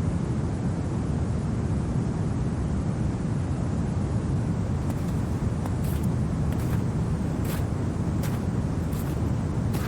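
Steady low rumble of winter wind, even and unbroken. From about five seconds in, a few faint, irregular clicks sound over it.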